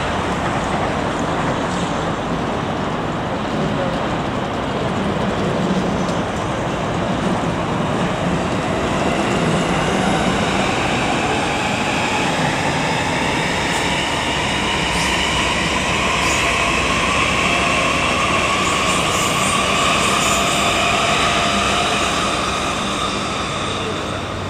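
Electric trains passing on elevated tracks with a steady rumble of wheels on rails. From about nine seconds in, a commuter train's traction motors whine, the pitch rising slowly as it accelerates; a JR Yamanote Line E235 series train is on the nearest track. A few light clicks of wheels over rail joints come near the middle.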